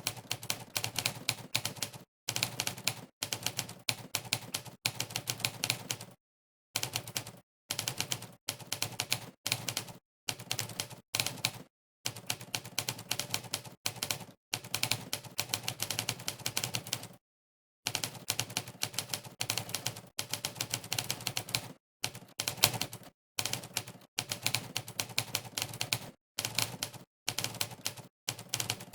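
Monkeytype's typewriter keypress sound effect: a recorded typewriter key strike played for each keystroke, coming as fast runs of clacks, many a second, broken by short dead-silent pauses, the longest about 17 seconds in.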